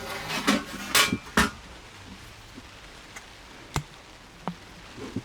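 Workshop handling noises: a short burst of scraping and rustling in the first second and a half, then a few separate sharp clicks or taps.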